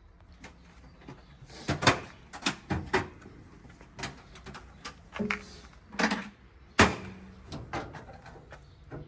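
A series of irregular sharp knocks and clunks, loudest about two seconds in and again near seven seconds.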